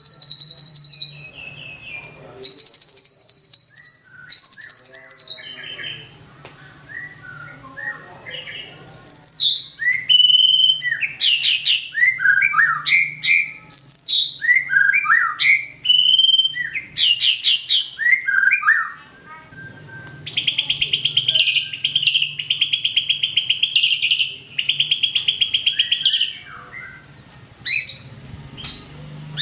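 White-rumped shama singing a long, varied song of buzzy repeated notes and quick whistled phrases, with a long rapid trill in the second half. A faint steady low hum lies underneath.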